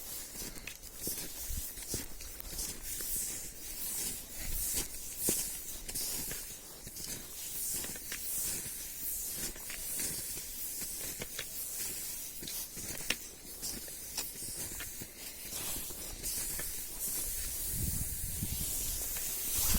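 Skis swishing and crunching over snow in a steady stride, a hissing glide with many small crisp clicks and a swell about once a second.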